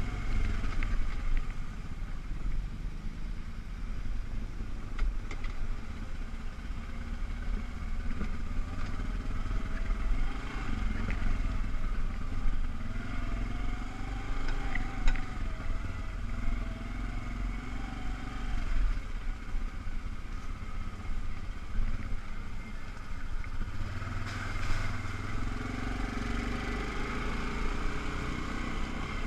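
ATV engine running, its pitch rising and falling with the throttle, with a few clattering knocks over the rumble.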